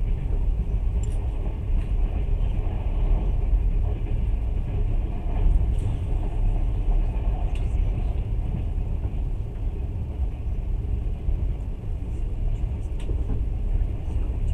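Steady low rumble of a moving passenger train carriage heard from inside, with a few faint scattered clicks.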